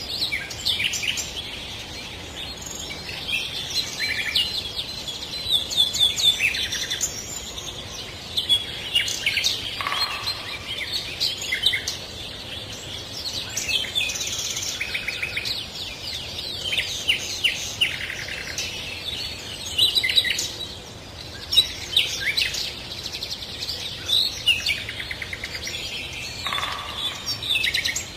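Several songbirds chirping and singing together, many short overlapping chirps and quick trills with no pause.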